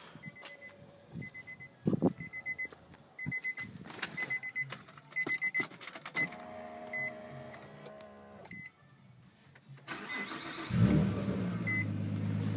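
A short electronic beep repeats about once a second, then stops. Near the end, a 2006 Nissan Maxima's 3.5-litre V6 starts and settles into a steady idle through its aftermarket catback exhaust.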